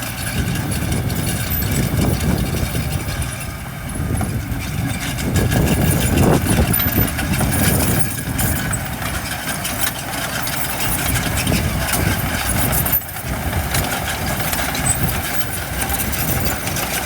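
Diesel engines of heavy construction machinery running, the level rising and falling.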